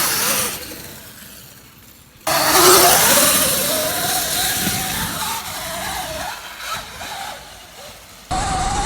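Sur Ron electric dirt bike's motor whining under hard load on a steep hill climb. It starts suddenly about two seconds in, rises in pitch, then holds and wavers, over a rushing noise.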